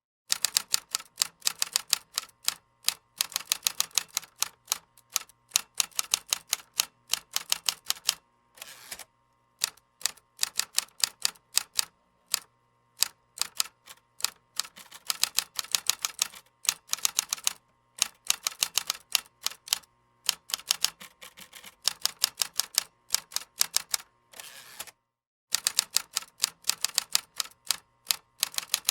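Computer keyboard typing: fast runs of key clicks lasting a few seconds each, broken by short pauses.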